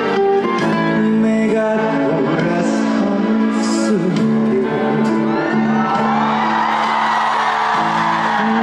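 Live band music with a singing voice, loud and steady.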